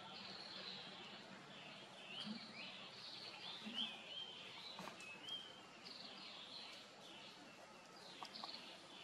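Birds chirping faintly: a run of short high notes and quick rising and falling whistles, over a faint steady low hum.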